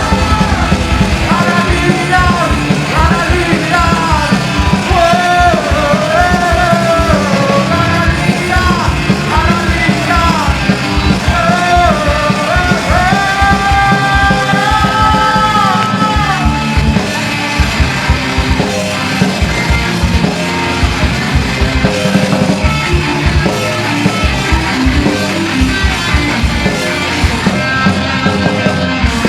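Live punk rock band playing loud, with singing over guitars and a steady drum beat.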